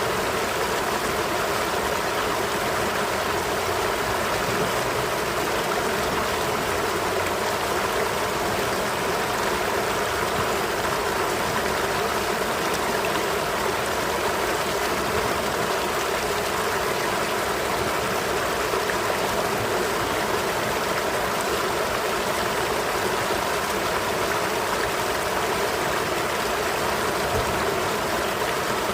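A river flowing steadily over rocks, with a constant rushing and gurgling of water.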